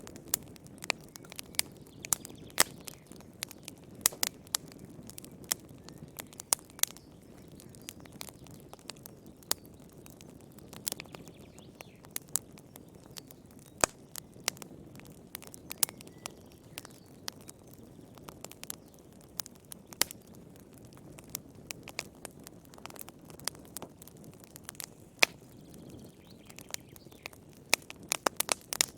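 Wood fire crackling in a fireplace: irregular sharp pops and snaps, sometimes several in quick succession, over a soft steady low rush of the flames.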